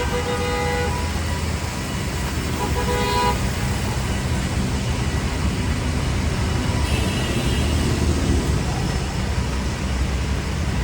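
City traffic on a rain-wet avenue: a steady rumble of engines and tyres, with a short car-horn toot at the start and another about three seconds in.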